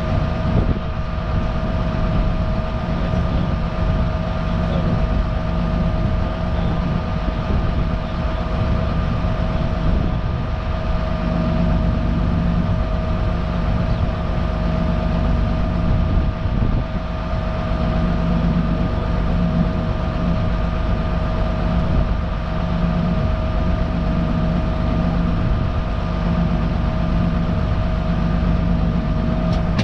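Tractor engine running steadily, a low rumble with a steady high whine over it.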